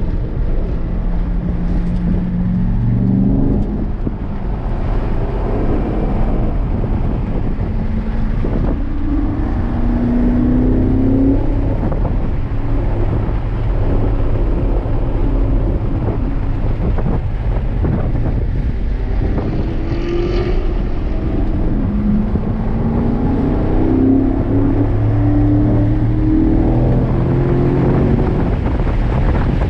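2017 Corvette C7 Grand Sport's 6.2-litre LT1 V8 heard from inside the cabin under hard acceleration. Its pitch climbs through the revs several times and drops back at each gear change of the seven-speed manual.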